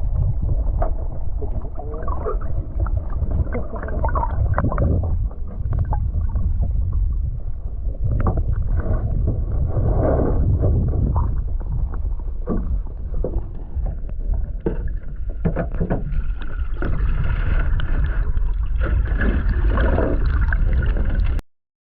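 Canoe on a river: water sloshing and splashing, with scattered knocks against the hull, over a heavy low rumble on the microphone. The sound stops abruptly near the end.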